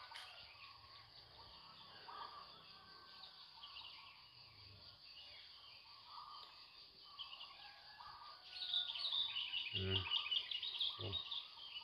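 Dawn chorus of many small birds chirping and calling over each other, with a louder, fast run of repeated notes from one bird in the last few seconds. Two short, low sounds come near the end.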